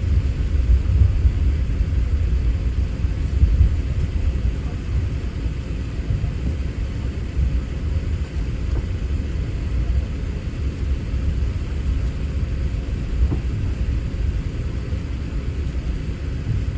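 Low, steady rumble of an Airbus A380's cabin noise: engine and airflow sound heard from a passenger seat.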